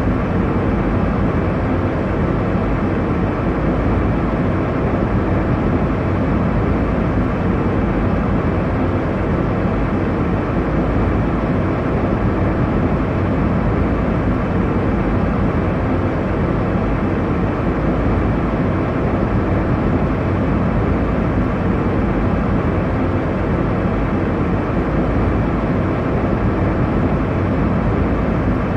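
Airliner cabin noise in flight: a steady low rumble and rush of jet engines and airflow, even throughout.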